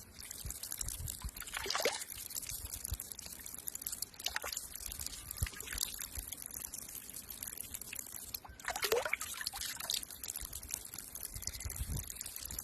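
Water pouring and trickling in a steady stream, with a few louder splashes as it is disturbed.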